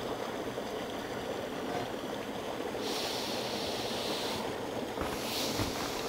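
Shallow mountain stream flowing: a steady rush of running water, with a brighter hiss for a second or so midway.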